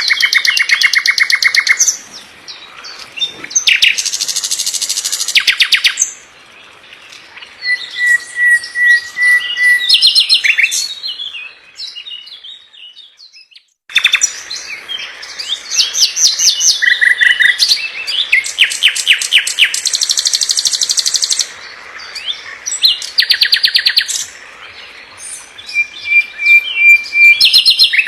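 Songbird singing a loud, varied song of very fast rattling trills and short held whistles, a birdsong tutor recording. The song pauses for about two seconds in the middle, then starts again suddenly.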